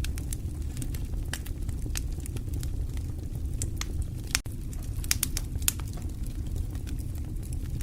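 Wood burning in a fireplace: frequent, irregular sharp crackles and pops over a steady low rumble of the flames.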